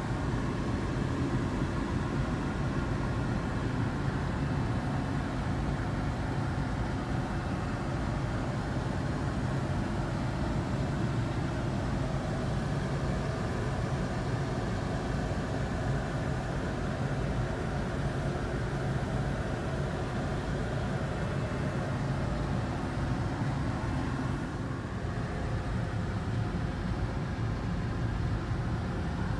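International Harvester 1470 hillside combine running steadily while harvesting wheat: an even engine and machinery drone that eases slightly about 25 seconds in.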